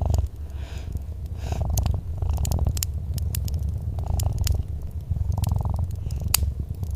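Domestic cat purring in a steady low rumble that swells and eases with each breath, with sharp crackles and pops of a wood fire scattered through it.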